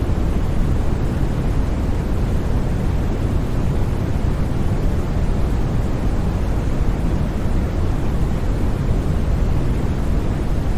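Steady synthetic white noise for sleep, an even, unbroken rush heavy in the low end, with no changes or sudden sounds.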